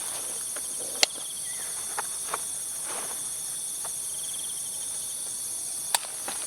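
A steady chorus of forest insects trilling high, one of them pulsing, with two sharp clicks or snaps, one about a second in and one near the end, and a few fainter ones between.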